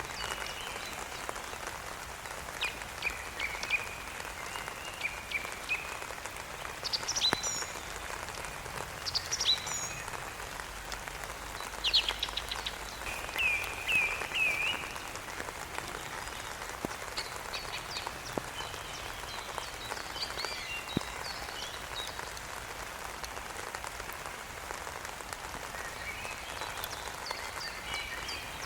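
Steady rain pattering, with scattered short chirping calls from small animals over it, some as quick downward sweeps and a short run of repeated chirps in the middle.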